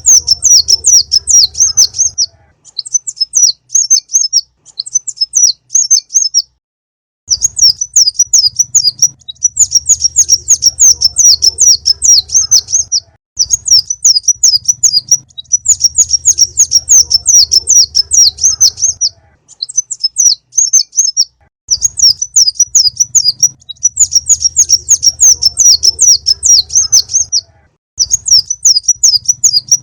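Recorded song of a konin bird: rapid, high-pitched chirping trills in phrases of a few seconds, broken by short pauses, played as a lure call. A low hum from the recording lies under the louder phrases.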